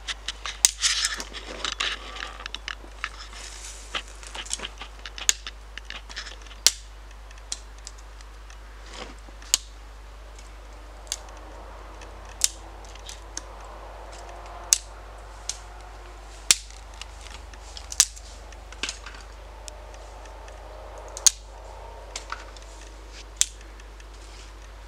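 Kindling sticks catching fire, crackling with sharp single pops at irregular intervals of about a second or two, busier in the first couple of seconds.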